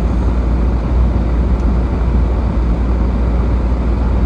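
A car driving: a steady, low rumble of engine and tyres on the road.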